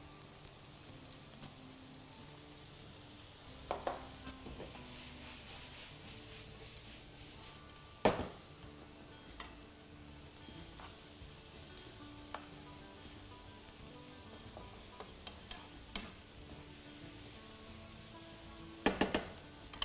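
Onions, chopped peppers and mushrooms sizzling as they fry in oil in a pan, stirred with a spoon that knocks against the pan now and then, most sharply about eight seconds in and a few times near the end.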